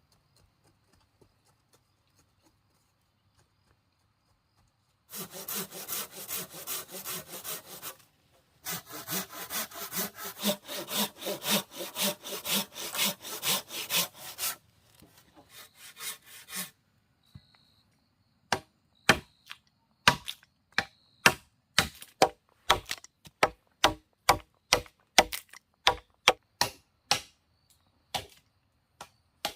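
Hand saw cutting through wood in quick back-and-forth strokes, with a short break partway through. After a pause comes a steady run of sharp knocks on wood, roughly one a second.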